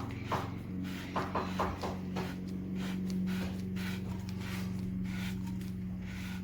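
A few short rubbing clicks, most of them in the first two seconds, as the Pipamoka's control ring is twisted to push the water up through the coffee. A steady low hum runs underneath.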